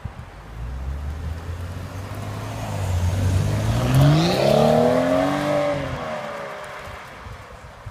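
BMW 535i's turbocharged inline-six through an M Performance exhaust. A low rumble builds, then rises sharply in pitch as the engine revs up, peaking about five seconds in before falling away and fading.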